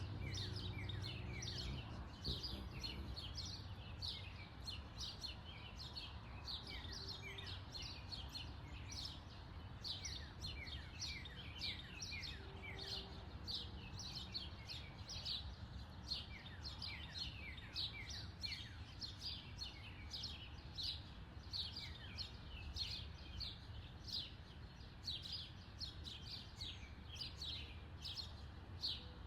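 Small backyard birds chirping continuously, short falling chirps several times a second, over a steady low background rumble. A low hum fades out in the first couple of seconds.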